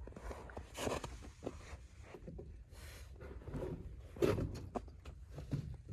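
Light handling noises: scattered small clicks and knocks with brief rustling, one louder knock near the end.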